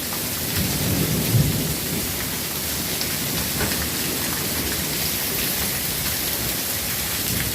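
Heavy rain falling steadily, with a low rumble of thunder in the first couple of seconds.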